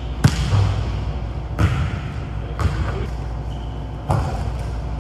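A basketball bouncing on a gym floor: four thumps about a second apart.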